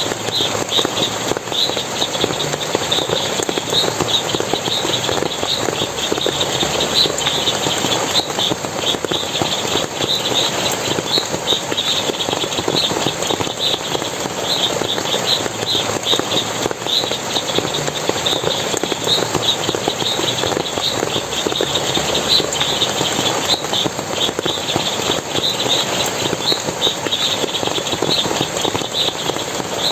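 Forest water splashing and running steadily, with short, high chirps repeating quickly and irregularly throughout.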